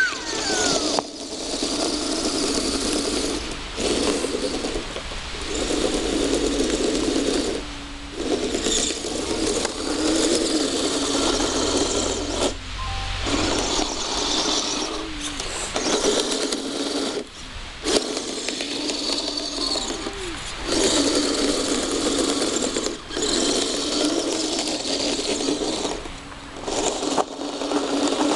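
Kyosho Blizzard radio-controlled snowcat's electric drive motors and gearboxes whirring. They run in stretches of a few seconds, stopping and starting again about every two to four seconds.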